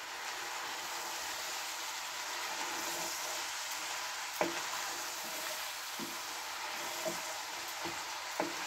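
Vegetables frying in oil on full heat, a steady sizzling hiss; from about four and a half seconds in, a utensil knocks lightly against the pan a few times as they are stirred.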